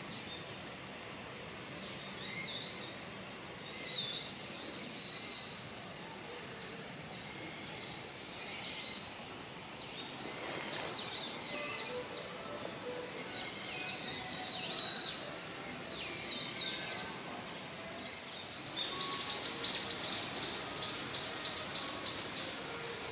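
Wild birds calling in woodland: scattered high chirps and wavering calls, then near the end a loud run of about fifteen quick, high notes, some four a second, over a soft steady outdoor hiss.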